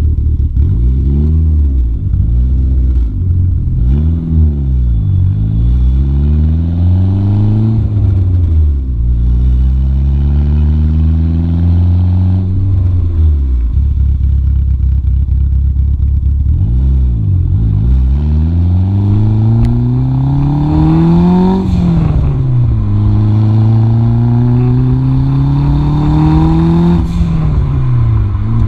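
Big-turbo DSM's turbocharged four-cylinder engine revving and pulling under way. The engine pitch swells up and down several times in the first half. Later it makes long climbs, each dropping sharply at a gearshift, twice near the end.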